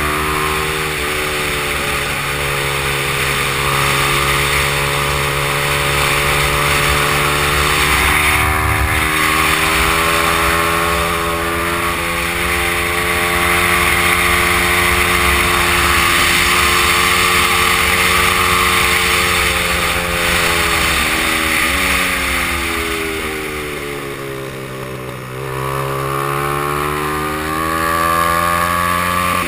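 Honda XR100 single-cylinder four-stroke engine ridden hard on track, its note holding high and climbing slowly. It drops off for a few seconds near the end as the throttle is backed off, then climbs again, over steady wind rush.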